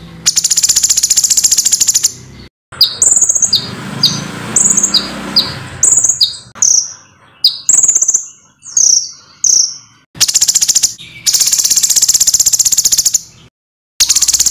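Small songbird song: fast, high, rattling trills, with a run of about a dozen short, sharply falling whistled notes in the middle, and a second long trill near the end.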